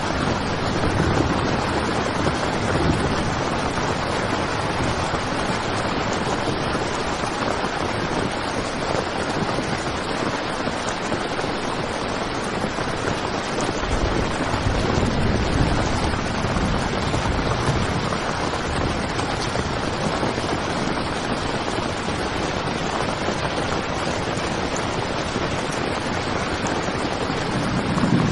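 Heavy rain on a tent's fabric: a steady, dense hiss of drops, with low rumbles swelling up a few times, the strongest near the end.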